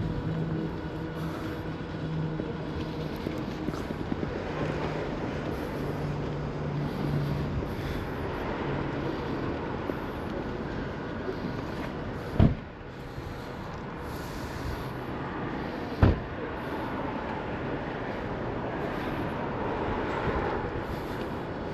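Road traffic noise with a steady engine hum, and two sharp knocks about twelve and sixteen seconds in.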